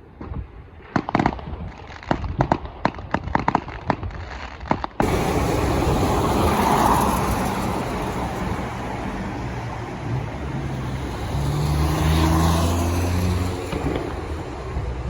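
Fireworks going off: a quick run of sharp bangs and crackles. About five seconds in it cuts abruptly to the steady noise of a road vehicle running, with wind on the microphone.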